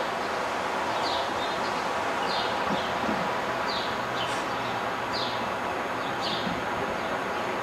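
A small bird giving short, high chirps that fall in pitch, about one a second, over a steady background rush.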